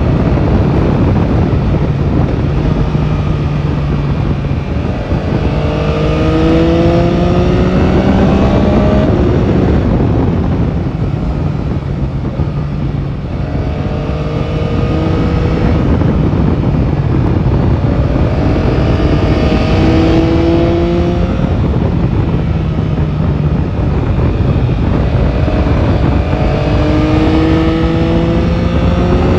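Yamaha Tracer 9 GT's 890 cc three-cylinder engine under way, its pitch climbing in repeated runs of acceleration and dropping back between them, over a steady rush of wind and road noise.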